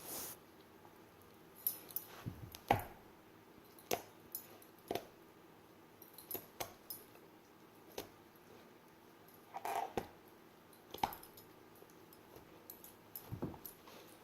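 A dog worrying and chewing a toy animal: scattered short thumps, clicks and rustles at irregular intervals, with a brief higher sound about ten seconds in.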